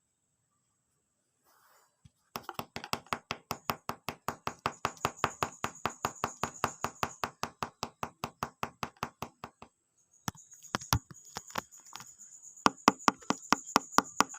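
Cockatiel rapidly tapping its beak against a hard object on a table, a fast, even train of sharp taps about seven a second. It stops for a couple of seconds, then starts again louder near the end.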